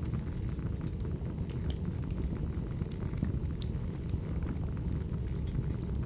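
Wood fire burning steadily: a low rushing of flames with scattered sharp crackles and pops, a few each second.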